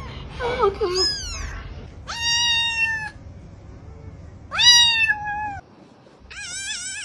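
Domestic cat meowing over and over: several long meows a second or two apart, the last one wavering up and down in pitch.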